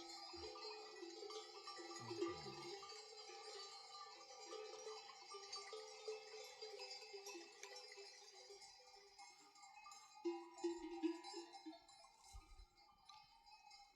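Many sheep bells clinking and ringing faintly and irregularly as a flock of sheep moves and grazes.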